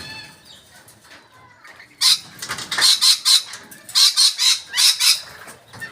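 Parrots calling: after a quieter start, a rapid series of about a dozen loud, harsh screeches begins about two seconds in and stops at about five seconds.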